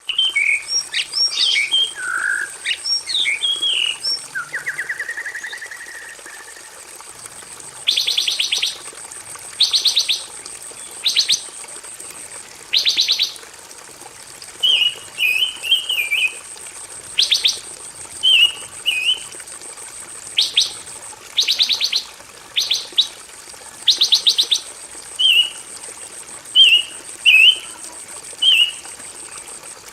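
Pancawarna songbird singing on a masteran recording: a rush of varied chirps and a buzzy drawn-out note in the first few seconds, then short rattling trills alternating with quick warbled phrases, each about a second apart. A faint steady high whine runs underneath.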